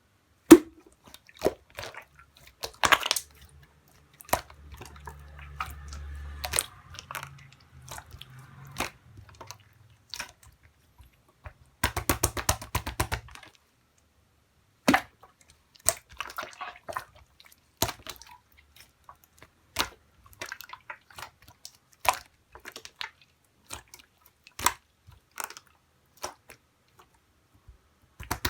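Clear slime being pressed, poked and stretched by hand: scattered sharp, sticky clicks and pops, with a dense run of rapid crackling pops about twelve seconds in.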